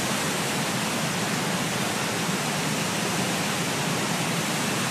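Floodwater rushing over a dam, a steady, even noise with no breaks. The dam is swollen with storm flooding after heavy rain.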